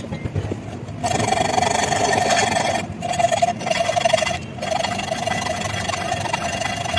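A motor-driven machine or power tool running with a steady whine and hiss. It starts about a second in and stops briefly twice before running on.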